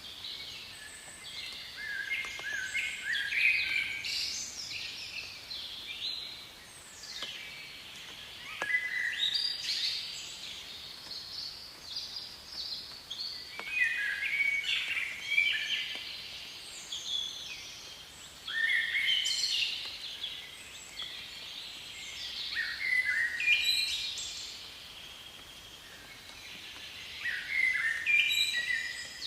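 Songbirds singing in quick, chirping phrases that recur every few seconds, over a faint steady background hiss.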